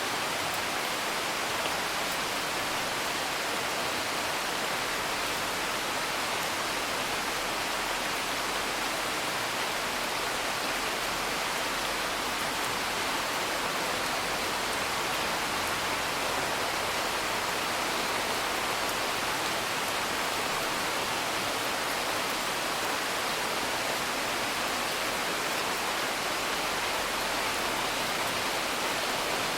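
Steady, even rain, heard from indoors as a continuous hiss, with a few faint crackles from a wood fire.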